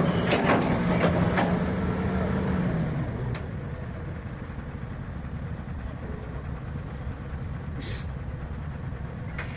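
Diesel truck engine labouring hard as the truck climbs a slippery slope under its own power, then easing off about three seconds in and running more quietly. A short hiss comes near the end.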